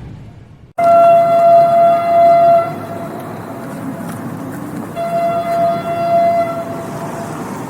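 A train's rumble fades out, then a sudden cut brings in a train horn sounding two long steady blasts of about two seconds each, the second a little quieter and coming about two seconds after the first. A steady rushing noise continues between the blasts.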